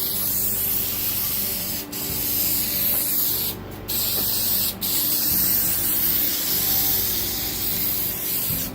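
Aerosol can of shellac hissing as a sealing coat is sprayed onto a carved wood sign, in long passes broken by a few brief pauses, one about a second in, a longer one near the middle.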